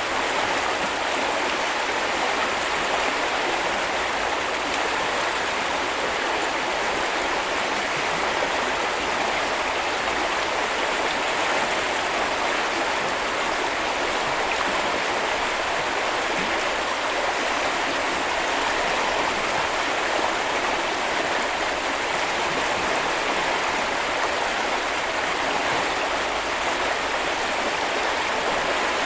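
A small river or brook running over stones, a steady rushing and babbling of water.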